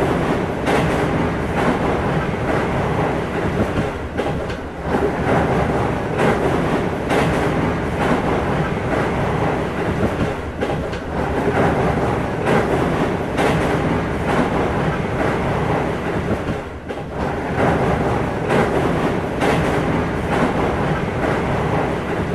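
A train running past on the rail line: a continuous rumble with repeated clacks from the wheels over the rail joints.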